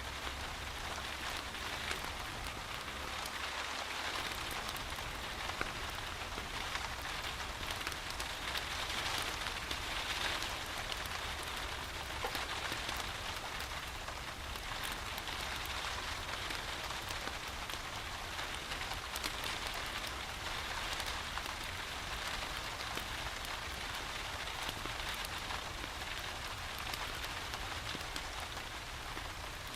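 Steady rain: an even hiss with many small drop ticks throughout.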